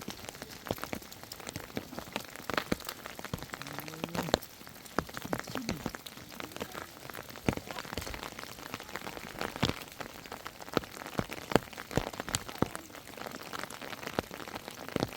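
Rain falling, with many irregular drops ticking and tapping on a surface over a steady wash.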